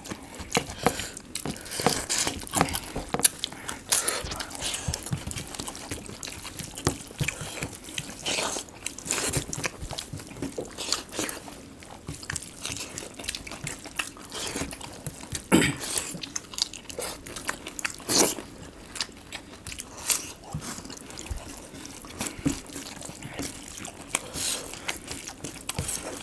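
Close-up eating sounds of rice and golda prawns eaten by hand: continual wet chewing and mouth smacks with irregular small clicks. A couple of louder sharp cracks come past the middle.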